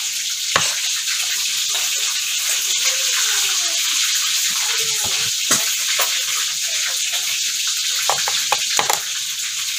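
Steady sizzle of food frying in hot oil, with a few sharp taps of a knife on a cutting board: one about half a second in, one around five and a half seconds, and a quick cluster near the end.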